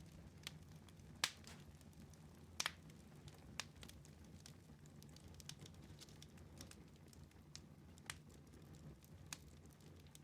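Wood fire in a fireplace crackling faintly: irregular sharp pops and snaps, the loudest about a second in and a quick pair near three seconds, over a low steady rumble of the flames.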